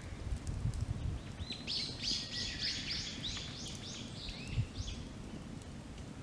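A songbird sings a quick run of about a dozen repeated high notes, roughly four a second, that stops about five seconds in. Under it is a steady low rumble, with faint scattered crackles from the wood campfire.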